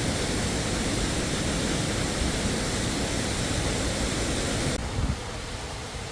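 Steady rushing of a waterfall. About five seconds in it cuts off abruptly to a quieter, duller sound of water.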